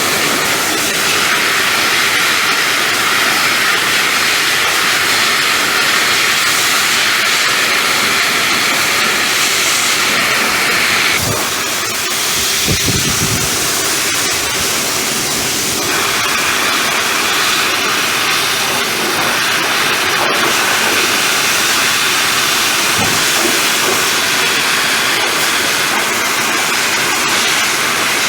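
Pressure washer spraying water on a truck, a loud steady hiss. About eleven seconds in the spray's sound drops and changes, then comes back brighter about five seconds later.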